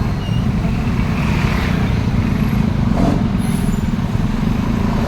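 Heavy truck engine running with a steady low rumble amid road traffic, with a short hiss about a second and a half in.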